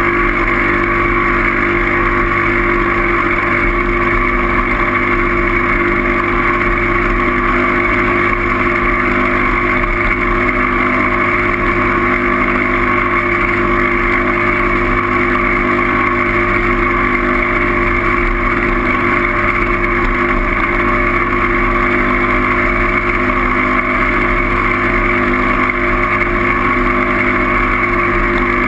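Loud, steady rushing noise with a constant hum underneath, unchanging throughout: wind and motion noise on the microphone during a bike ride.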